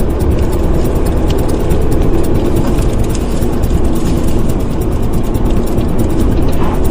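An engine running steadily, with no change in pitch.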